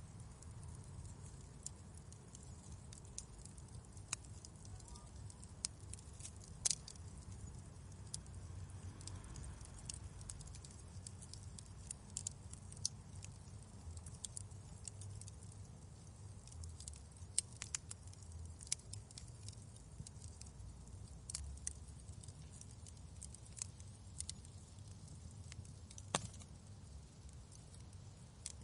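Wood fire crackling in a fireplace: a steady low rumble with frequent small snaps and pops scattered irregularly, two of them sharper than the rest.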